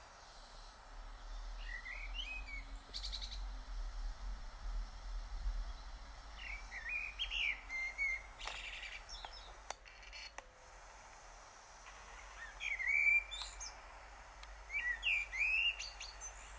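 A songbird singing short warbled chirping phrases, several of them separated by pauses of a few seconds, over a low background rumble.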